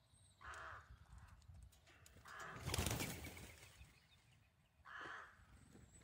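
Wild birds calling outdoors, three short calls spaced about two seconds apart. About halfway through there is a brief, louder rush of rustling noise.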